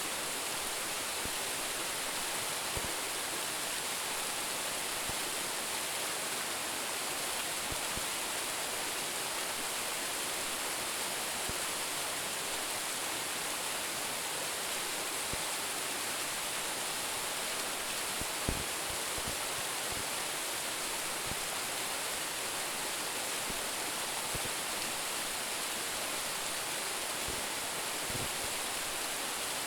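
Waterfall of about a ten-metre drop, pouring steadily: an even rushing hiss of falling water. A few brief low thuds sound through it, the strongest about eighteen seconds in.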